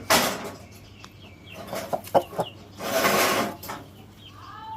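Parrot-beak aseel chickens clucking and calling. Two short, harsh, noisy bursts stand out, one right at the start and one about three seconds in.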